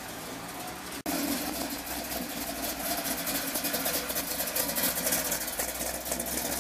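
A mid-1950s Chevrolet Corvette roadster's engine running as it rolls past; it is cut off abruptly about a second in. A customized 1930s sedan hot rod follows, its engine running louder and uneven as it drives slowly by, loudest near the middle of its pass.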